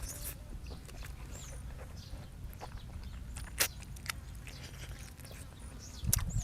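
Eating sounds close to the microphone: scattered sharp clicks and small mouth noises over a low steady hum, with louder chewing starting near the end.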